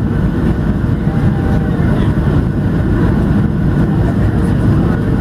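Cabin noise inside a Boeing 737-700 airliner: a steady, loud, low rumble of the CFM56 jet engines and airflow, even throughout.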